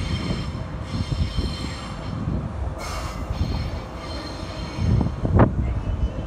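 Electric suburban train running past with a steady low rumble, its wheels squealing in repeated high-pitched bursts. Something sharp rises to the loudest point about five seconds in.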